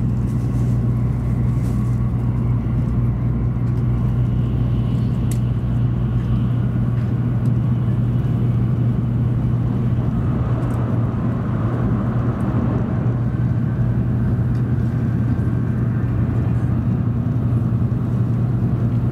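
Steady running rumble heard inside a passenger car of a JR Central N700 Series Shinkansen in motion, with a strong low hum; the deepest part of the rumble drops away about six seconds in.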